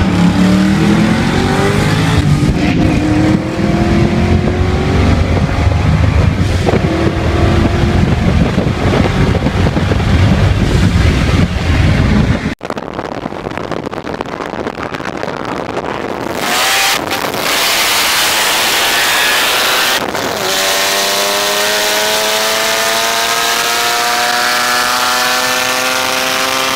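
Ford Mustang engine under hard acceleration, heard from inside the cabin with heavy road and wind noise; it cuts off abruptly about halfway through. Later, cars at full throttle in a high-speed roll race, one engine note climbing steadily in pitch through a long pull.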